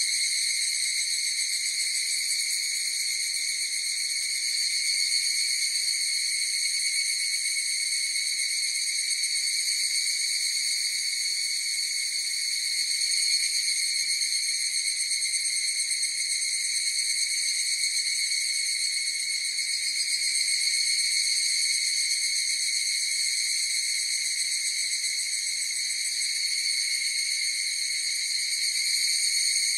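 A dense chorus of higurashi (evening cicadas) calling as one continuous high ringing drone without breaks, swelling and easing slightly now and then.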